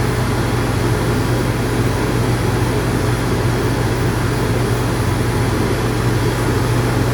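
Electric dog-grooming clippers running steadily with a low hum as they are skimmed lightly over a dog's face.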